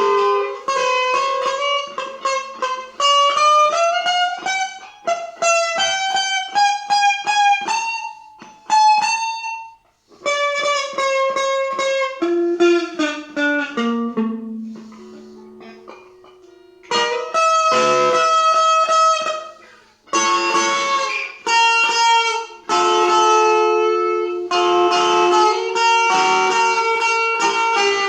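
Solo guitar playing a melody of plucked notes. The notes climb step by step in the first part, go quiet briefly twice, drop to a softer, lower run of notes, then move into denser repeated notes.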